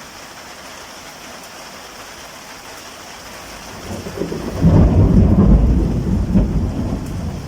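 Steady rain falling, then a roll of thunder builds from about halfway in, a loud low rumble that peaks and slowly trails off.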